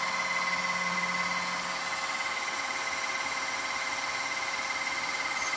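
Redkey W12 wet-and-dry vacuum floor washer running steadily as it washes the floor, a motor whine with steady high tones; a lower hum drops away about two seconds in.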